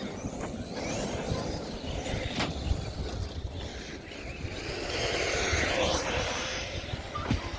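Electric RC car's motor whining, rising and then falling in pitch as it speeds up and slows, over a steady low rumble.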